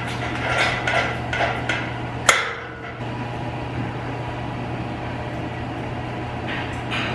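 Metal farm gate being swung over and secured: a run of clanks and rattles, with one sharp clank about two seconds in and a couple of faint rattles near the end, over a steady low hum.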